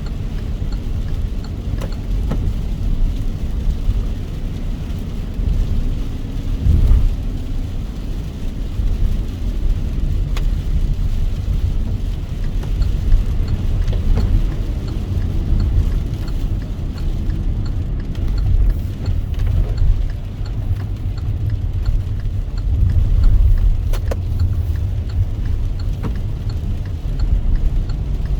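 Car driving in the rain: a steady low road and engine rumble, with a few sharp ticks of raindrops striking the car.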